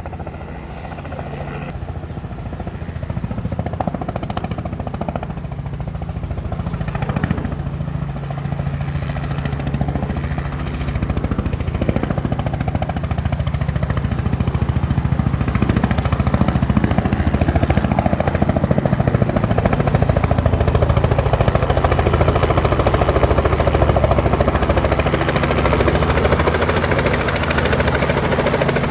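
Helicopter's engine and rotor running steadily with a fast rhythmic beat. It grows gradually louder, with more rushing hiss toward the end.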